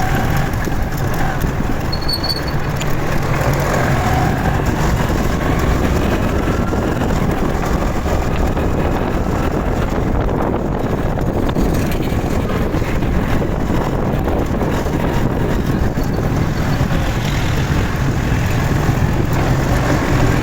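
A motorcycle riding along a road: a steady rush of engine and wind noise on a bike-mounted phone's microphone, with traffic around.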